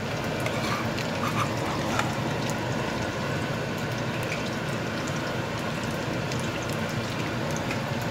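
Shrimp fried rice sizzling steadily in a hot pan while it is stirred with a metal spoon, with scattered small crackles and ticks.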